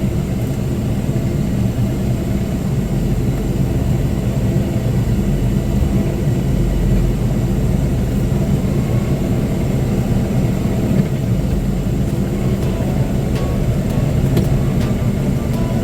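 John Deere compact tractor's diesel engine running steadily while it works a grapple moving logs and brush.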